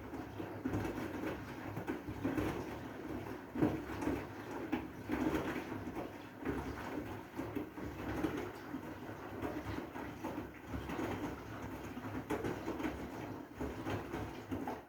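Washing machine in a wash cycle with heavy blankets inside, wet laundry and water sloshing in the turning drum in irregular swells.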